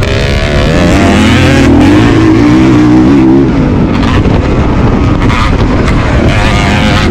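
Motocross dirt bike engine run hard on the track: the pitch climbs under throttle from about one to three and a half seconds in, then drops and rises again as the rider backs off and gets back on the gas.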